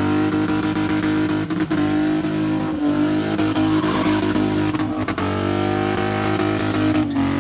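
BMW E30 sedan's engine held at high revs while the car spins, a steady high-revving tone that dips briefly and picks up again several times, over the hiss of the wheelspin.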